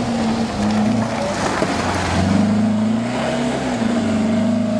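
Volkswagen Beetle's air-cooled flat-four engine pulling hard up a steep muddy track. It gets louder about two seconds in as the car passes close by.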